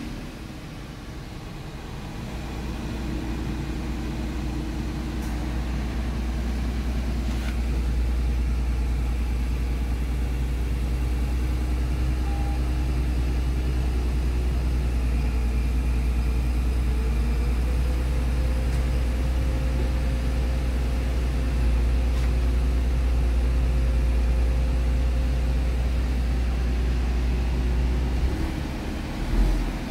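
Renault Twingo running and being driven, a steady low engine and road rumble that builds over the first several seconds as the car gets moving, then holds steady.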